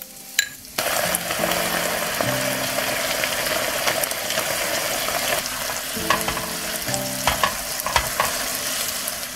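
Food sizzling in a hot frying pan as sliced peppers, onion and spaghetti are stir-fried, with scattered clicks and scrapes of a spatula. The sizzle comes in suddenly about a second in and stays steady.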